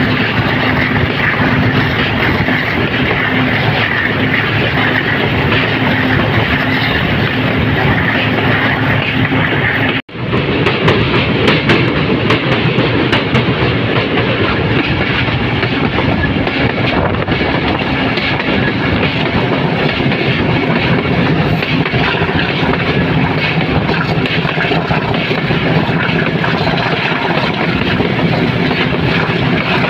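Express train running along the line, a steady rumble and rush of wheels on rails with clickety-clack of the wheels over the rail joints. The sound cuts out abruptly about ten seconds in and picks straight back up, with a run of sharp clicks for several seconds after.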